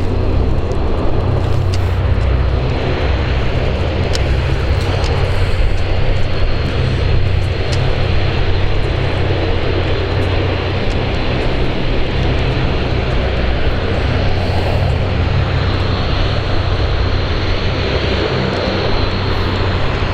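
Aircraft engines running steadily: a continuous drone with a thin high whine over it and a heavy low rumble throughout.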